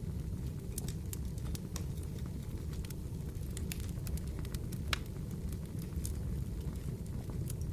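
Fireplace crackling: irregular sharp pops and snaps over a steady low rumble, with one louder pop about five seconds in.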